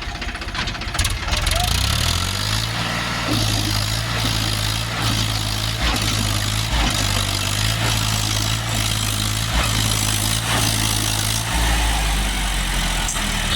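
Powertrac tractor's diesel engine working under load, its speed stepping up about two seconds in and changing again near the end, with occasional knocks.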